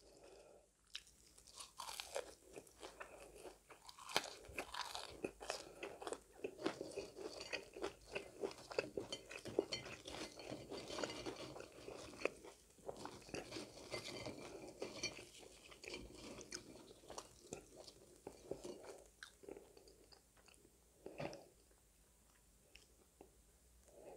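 Close-up chewing of crisp french fries, with dense crackly crunching that thins out near the end.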